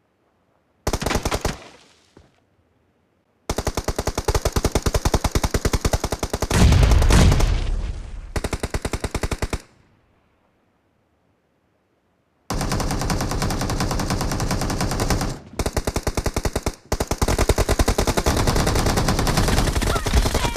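Video-game automatic gunfire in rapid sustained bursts, with dead silence between them. A short burst comes about a second in, then one of about six seconds with a deep boom in its middle, then another of about eight seconds broken by two brief pauses.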